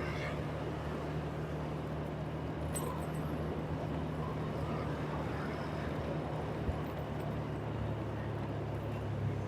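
A motor vehicle's engine running at a steady note under continuous road noise while travelling, with a short click about three seconds in.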